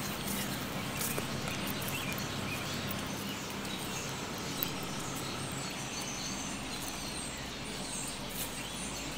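Outdoor background noise with birds chirping faintly now and then over a low steady hum, and one short click about halfway through.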